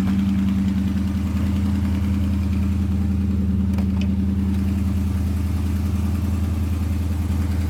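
A 1973 Buick Century's 350 four-barrel V8 idling steadily, still on fast idle from a cold start.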